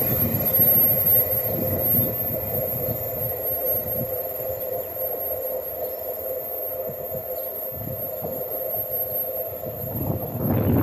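Electric regional passenger train running past in the station: a steady low rumble with a constant hum. The sound eases off through the middle and swells again near the end.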